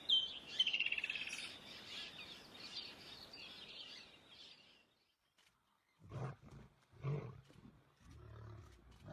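Birds chirping, with a fast descending trill about half a second in. After a brief gap, a lion gives a series of deep grunting calls about a second apart, starting about six seconds in.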